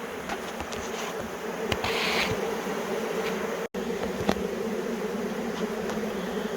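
Swarm of honey bees humming steadily, the close drone of many bees at once. A few light knocks and a brief hiss sound over it about two seconds in, and the sound cuts out for an instant near the middle.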